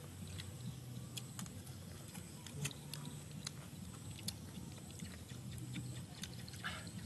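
Close, faint chewing and crunching of grilled food, heard as scattered irregular small clicks over a low steady hum.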